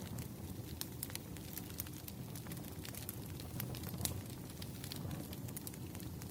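Firewood burning: a steady low rumble with frequent sharp crackles and pops scattered throughout.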